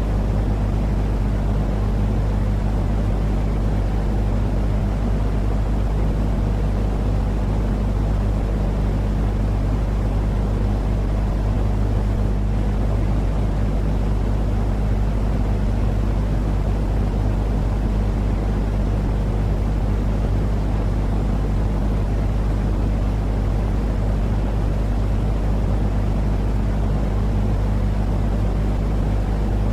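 Steady white-noise sleep sound for a baby: a deep, even rumble weighted to the low end, with a constant low hum under it, like an engine or cabin drone. It does not change.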